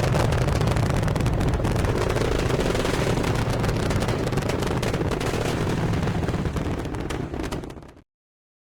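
Rocket launch noise: a loud, dense rumble with crackle, easing slightly before cutting off abruptly about eight seconds in.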